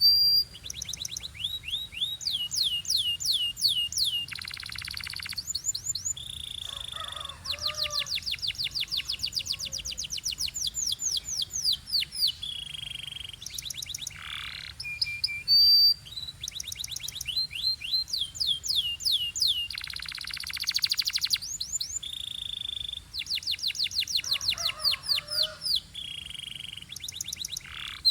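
Domestic canary singing a long, continuous song of rapid trills. Rolls of quick falling notes come at about ten a second, broken by short held whistles and buzzy phrases.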